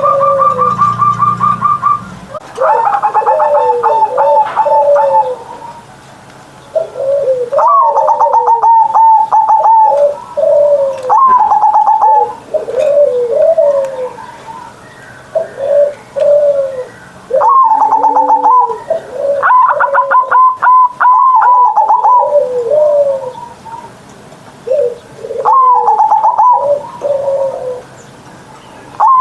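Zebra dove (perkutut) in full song: repeated phrases of quick stuttering notes running into lower, falling coos, a new phrase every few seconds.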